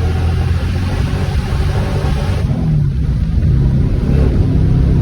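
Supercharged stroker V8 of a 1989 Ford Mustang GT Fox body running hard under acceleration, heard from inside the cabin. The high hiss drops away about two and a half seconds in, leaving a steadier engine note.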